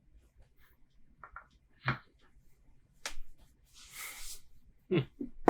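Scattered light clicks and knocks of things being handled on a table, the loudest a knock about five seconds in, with a short soft hiss about four seconds in.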